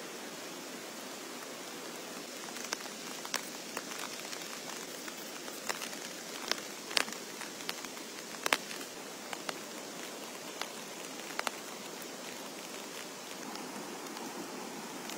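Steady rain with irregular sharp taps of drops striking a nearby surface, most frequent in the middle stretch.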